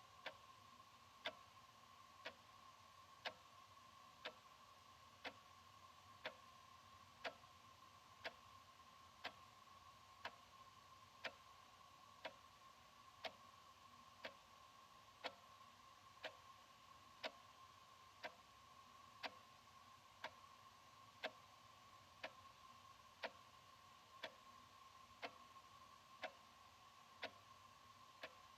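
Analog wall clock ticking steadily, one sharp tick about every second, over a faint steady whine.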